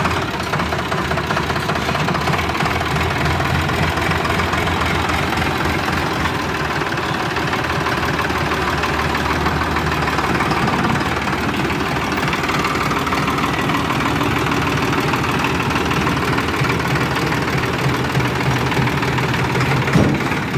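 Tractor's diesel engine running steadily with a fast, even knock.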